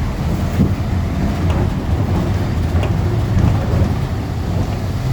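Steady low rumble of road traffic passing on a busy avenue, with a few short knocks.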